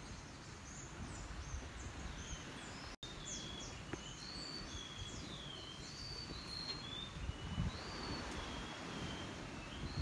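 Birds chirping, many short whistled calls in quick succession that get busier after about three seconds, over a low steady outdoor background noise.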